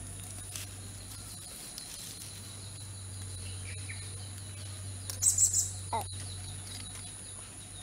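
Birds chirping outdoors: a few short calls, with the loudest cluster of high chirps about five seconds in and a falling note just after, over a steady high-pitched tone and a low hum.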